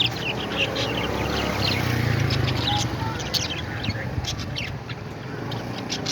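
Several parrots chirping and squawking in rapid, overlapping short calls, over a steady low hum.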